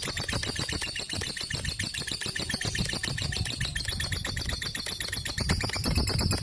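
A lovebird chattering in a long, continuous, very rapid string of shrill chirps, about ten or more a second, without a break.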